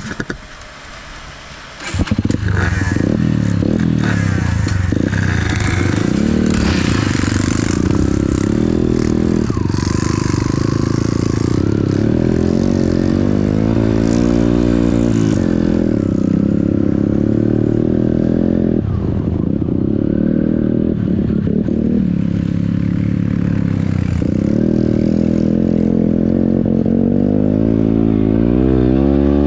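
Enduro motorcycle engine that comes in loud about two seconds in and keeps running under way, its pitch rising and falling as it revs up and eases off.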